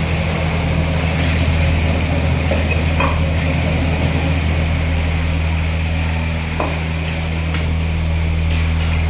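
Steady low hum of kitchen equipment with cooking going on, and a few sharp metal clinks of a utensil against a pan, about three seconds in and twice more near the end.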